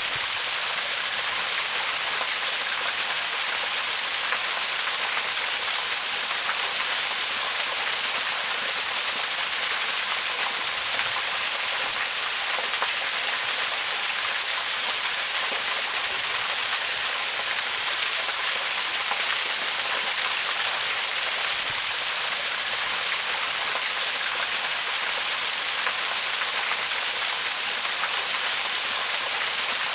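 Waterfall: a steady, unbroken rush of falling water, mostly a high hiss with little low rumble.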